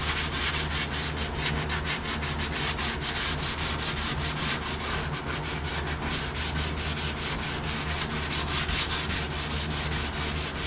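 Sandpaper rubbed back and forth by hand over a truck cab's painted sheet metal, in quick, even strokes. It stops at the end.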